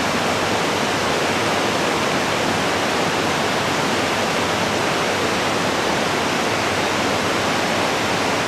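Senjin Falls, a waterfall, with the steady, even rush of falling water.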